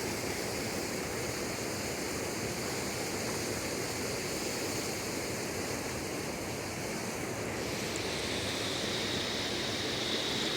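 Rain-swollen creek rushing steadily at high flow after a storm, an even wash of water noise.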